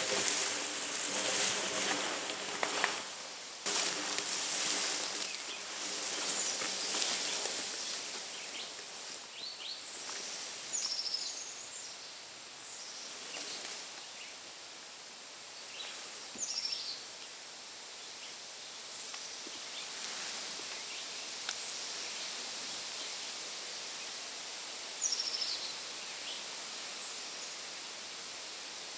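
Outdoor ambience: a steady rustling hiss, loudest in the first few seconds, with a bird giving short, high, downward-slurred calls every few seconds.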